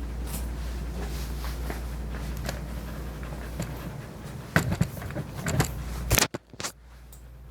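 Electric dog-grooming clippers humming steadily under scattered clicks and scrapes of handling. A few louder knocks come around four and a half to six seconds in, then the hum stops suddenly.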